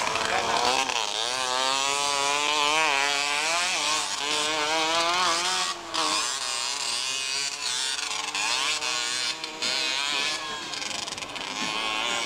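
Motocross motorcycle engines revving, their pitch rising and falling again and again as the bikes accelerate and ease off. The sound cuts out briefly about six seconds in.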